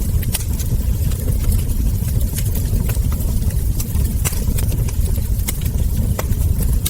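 Wood fire crackling, with irregular sharp pops of burning logs and embers over a steady low rumble.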